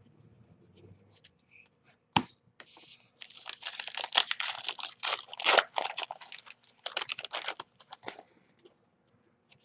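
A trading card pack's foil wrapper being torn open and crinkled: a single sharp click about two seconds in, then several seconds of crackly tearing and crinkling.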